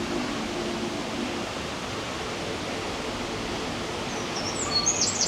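Steady rushing background noise, with a small bird's quick, high chirps near the end.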